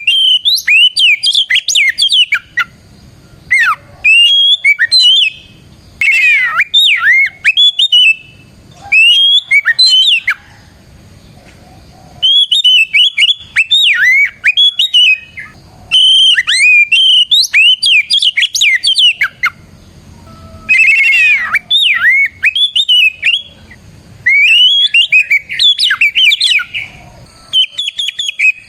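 Oriental magpie-robin singing loudly in full, open song: bursts of rapid, varied whistled phrases, each a second or two long, with short pauses between.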